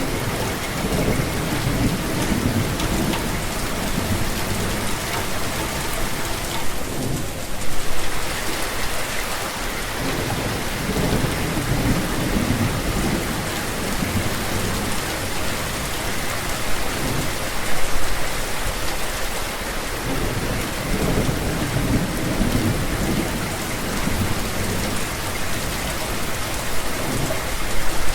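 Steady rain falling, with low rolls of thunder rumbling up and fading several times.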